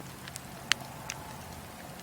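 Wood fire crackling in a fireplace, with one sharp pop a little under a second in and a few fainter snaps around it, over a steady low background of the burning.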